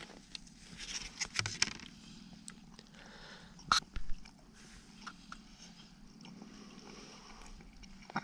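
A person chewing a mouthful of fish taco close to the microphone: wet mouth noises with scattered sharp clicks and smacks, the loudest a pair about four seconds in.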